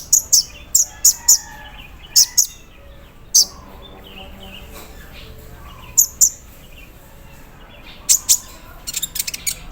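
A kolibri ninja sunbird calling: sharp, very high-pitched chips that come in quick clusters of two to six, with softer twittering between them and a pause of a few seconds in the middle.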